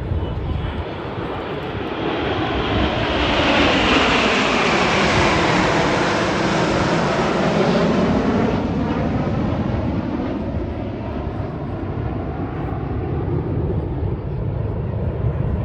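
Jet aircraft flying past: the noise builds to a peak about four to eight seconds in, with a sweeping whoosh as it passes, then fades away.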